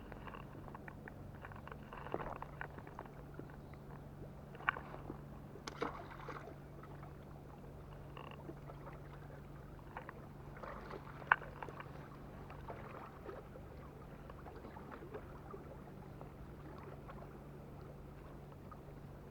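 Small boat on the water: a faint steady low hum with scattered clicks and knocks, the sharpest about eleven seconds in.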